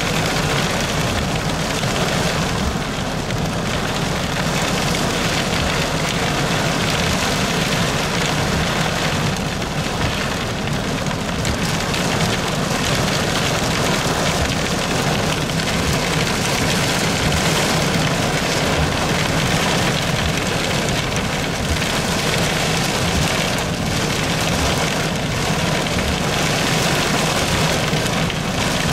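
Heavy, wind-driven thunderstorm rain pelting a car's windshield and roof, heard from inside the car as a loud, steady hiss.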